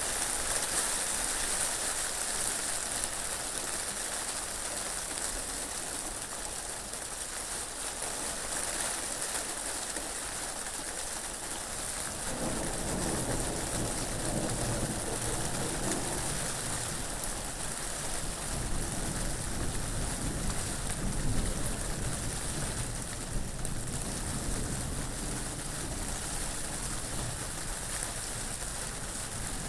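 Steady rain falling, a continuous hiss, with wind. About twelve seconds in, a deeper rushing swells up and carries on underneath the rain.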